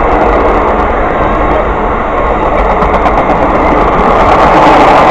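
Amtrak passenger train passing close by: a loud, steady rumble and rush of steel wheels on the rails.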